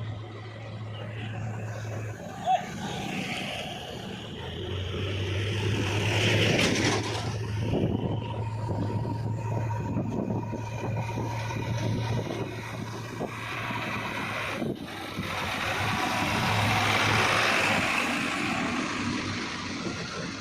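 Diesel engine of a JCB 3DX backhoe loader running and working under load, with a steady low hum and a rumble that swells louder twice as it digs and loads mud. A brief sharp knock comes about two and a half seconds in.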